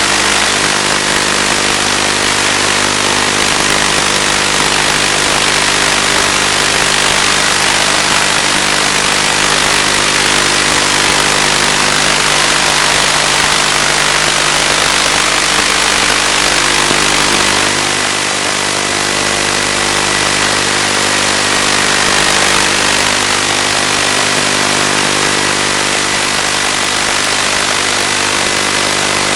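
Steady droning hiss from the analog FPV video-link audio: a constant low hum of even tones, most likely the plane's motor, under heavy radio static and wind noise. The lowest part of the drone eases a little about 18 seconds in.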